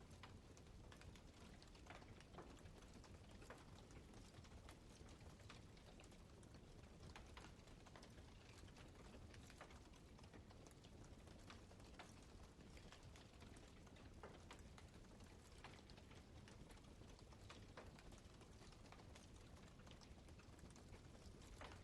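Wood campfire crackling faintly: irregular sharp snaps and pops over a low, steady rumble of the burning fire.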